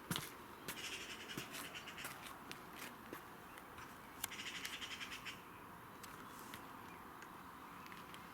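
Two faint bursts of rapid chattering bird calls, each about a second long, with scattered clicks between them.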